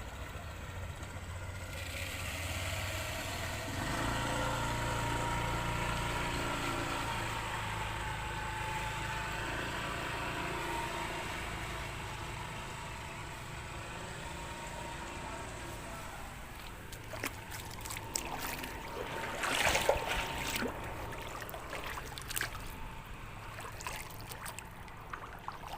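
A motor vehicle's engine running and swelling, then fading away. It is followed by irregular splashing and sloshing of floodwater.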